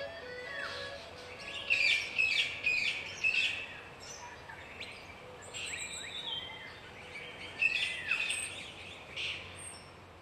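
Songbirds chirping and singing: rapid short chirps and quick downward-sweeping calls, with an occasional whistled note that bends down, over a steady outdoor background hiss. The chirping is busiest about two to three seconds in and again near eight seconds.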